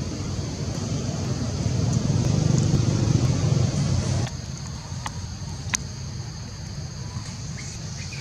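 Low rumble like a passing road vehicle, swelling and then cutting off sharply about four seconds in, over a steady high-pitched hiss, with a couple of faint clicks after.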